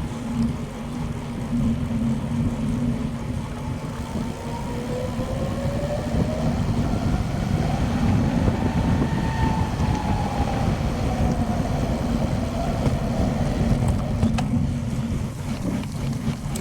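Steady wind rushing over the microphone of a camera carried on a moving bicycle, with a faint whistling tone that slowly rises and falls.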